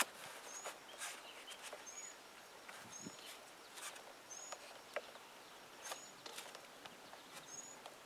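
Faint, high, short bird chirps, one brief note repeated about every second or so, over light clicks and taps of hand work on a plastic wall fitting.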